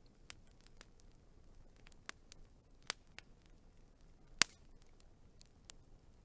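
Burning wood fire crackling, with scattered irregular pops and snaps and one loud sharp pop about four seconds in.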